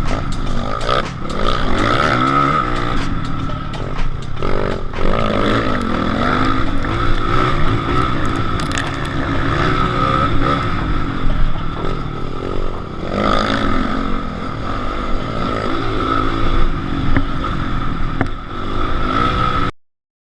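Motocross motorcycle engines revving up and down repeatedly, the pitch rising and falling with the throttle. The sound cuts off abruptly near the end.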